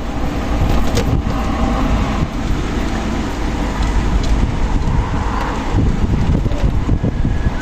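Strong wind blowing in uneven gusts, heavy low rumble of wind on the microphone.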